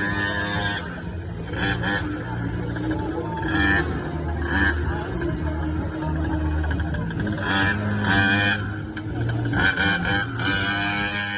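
Small two-stroke engine of a GoPed scooter running, with short higher-pitched patches coming and going over a steady low hum.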